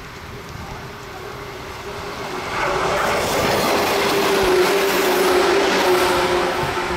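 Electric train passing close by, its wheels running on the rails with a steady hum. It grows louder about two and a half seconds in.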